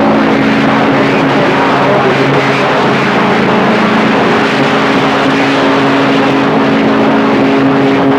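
CB radio receiver blaring a keydown: loud, steady static with several droning tones, as two high-power stations transmit over each other on the same channel.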